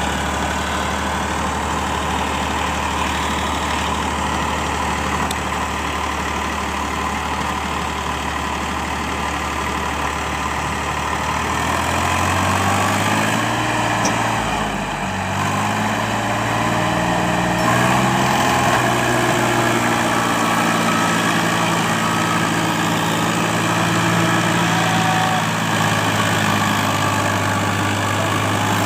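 Sonalika 740 tractor's diesel engine running steadily, then, about twelve seconds in, its revs change and the pitch shifts up and down for several seconds before settling at a higher, steady speed as it works to pull a stuck load free.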